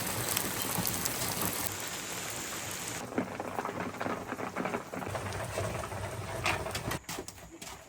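Steady rain falling, a dense hiss dotted with sharp ticks of individual drops striking a surface, easing off near the end.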